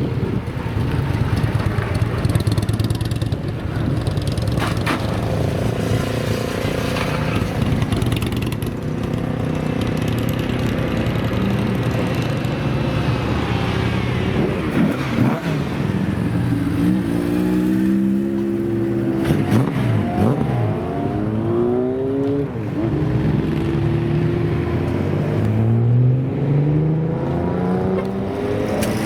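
Old motorcycle engines running loudly, with the throttle blipped several times in the second half so the pitch climbs and drops again and again.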